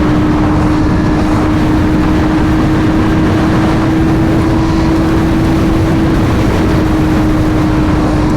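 Sport bike's inline-four engine holding a steady high-rpm drone at highway cruising speed. Its pitch rises slightly and eases back, over a heavy rumble of wind on the microphone.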